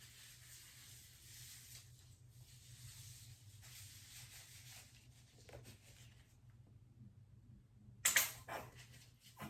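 Faint rustling handling noise over a steady low hum, then a sharp knock about eight seconds in, followed by a smaller one.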